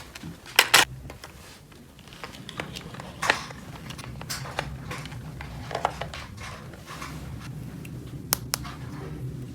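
Small plastic toy pieces being handled: scattered clicks and taps, with two sharp clicks in quick succession about half a second in, over a low steady hum.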